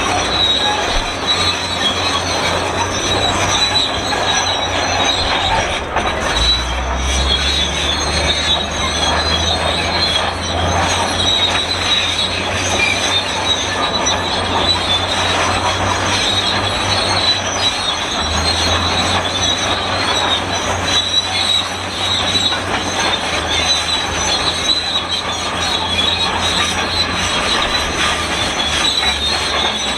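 Shantui SD32 crawler bulldozer squeaking and screeching, a continuous metal-on-metal squeal over the low rumble of its diesel engine, which swells twice as the machine works.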